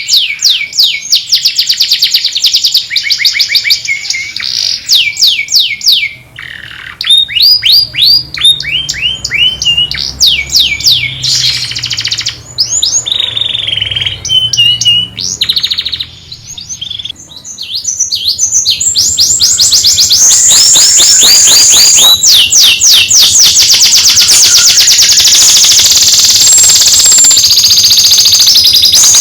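Domestic canary singing: fast rolling trills of repeated high notes, changing phrase every few seconds, with short pauses about 6 and 16 seconds in, then one long dense trill over the second half.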